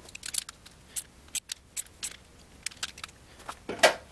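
Short, irregular metal clicks and clinks from hand tools and battery-cable parts being worked and handled, with one louder clunk near the end.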